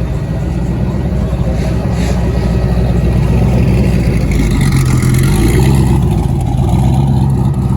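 Car engine and road noise heard from inside a moving car, the engine note growing a little stronger about halfway through.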